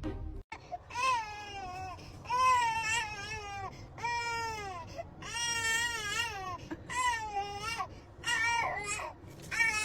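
A series of long, wavering, high-pitched cries, about seven in a row, each roughly a second long.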